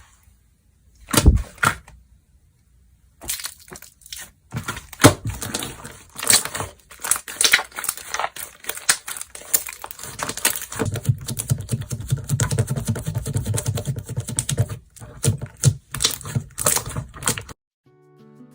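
Slime being worked by hand: dense crackling, popping and tearing clicks with a lower squishing stretch in the middle. It cuts off abruptly near the end.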